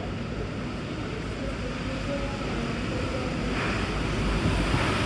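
Rubber-tyred MP14 Paris Métro train running, a steady rumble and rush of noise heard from inside the train. It slowly grows louder, turning brighter and hissier over the last second and a half.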